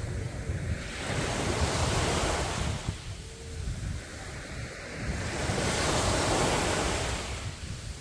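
Sea surf breaking on a beach, twice swelling into a wash of noise and fading away, over a steady rumble of wind on the microphone.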